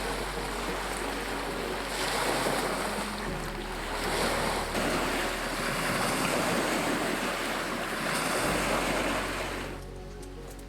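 Steady rushing noise that swells and eases every couple of seconds, then falls away sharply near the end.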